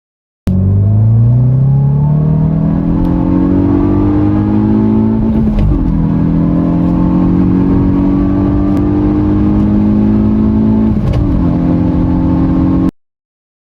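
Hyundai i20N's turbocharged 1.6-litre four-cylinder engine and exhaust under hard acceleration. The engine note rises steadily, drops suddenly at an upshift about five seconds in, climbs again and drops at a second upshift near the end.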